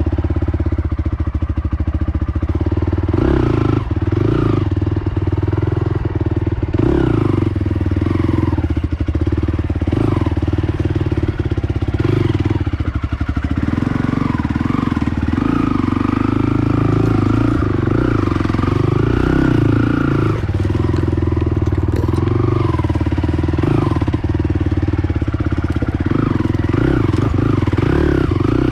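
Honda TRX450R quad's single-cylinder four-stroke engine running under way, its revs rising and falling.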